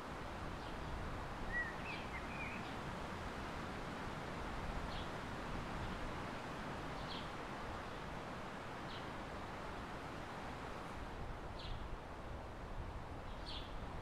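Short, high bird chirps every couple of seconds, with a brief warbled call about two seconds in, over a steady outdoor background noise.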